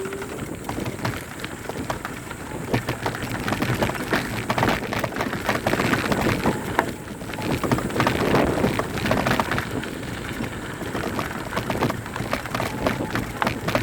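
Mountain bike rolling downhill over a rough dirt trail: continuous crunching of tyres on dirt and stones, with dense rattling clicks from the bike, swelling and easing as the ground changes.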